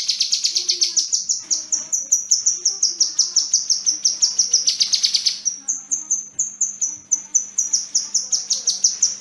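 Kinoi songbird singing a long, fast run of high, rapid repeated chirps, several a second, breaking briefly about five and a half seconds in and then starting a second run.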